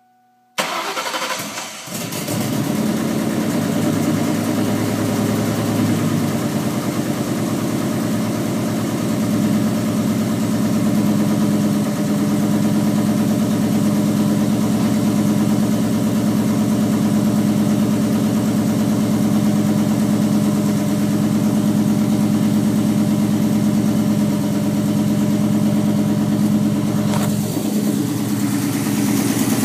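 Turbocharged 1999 Mustang GT's 4.6-litre V8, breathing through a Flowmaster cat-back exhaust, starting for the first time on a homemade turbo kit. It fires about half a second in, dips briefly, then settles into a steady idle.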